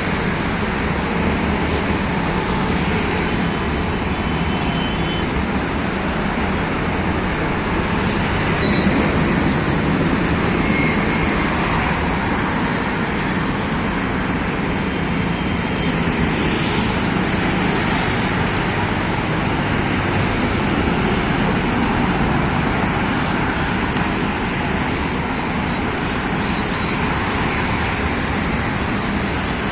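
Steady noise of road traffic passing on a busy highway, with a few short high beeps about a third of the way through.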